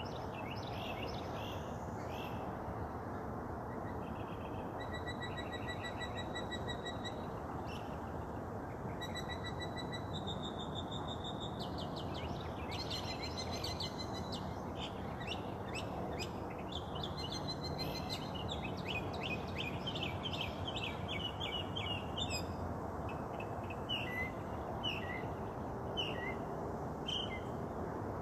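Several songbirds singing and calling at once, with rapid trills, whistled notes and quick chirps that grow busiest in the middle of the stretch. A steady background noise runs beneath them.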